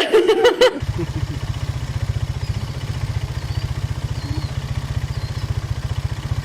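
A loud, short, pitched cry in the first second. Then an engine starts running at a steady idle, with a fast, even low throb.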